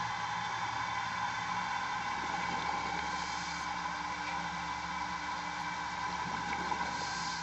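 Steady mechanical hum made of several constant tones, with a hiss that swells about every four seconds.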